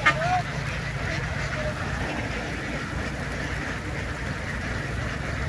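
A large flock of domestic ducks quacking together in a continuous din, with a few loud, close quacks right at the start. A steady low rumble runs underneath.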